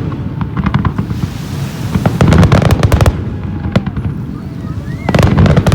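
Fireworks going off in rapid volleys of bangs and crackles with a rolling low rumble, in three loud clusters: at the start, about two seconds in, and near the end.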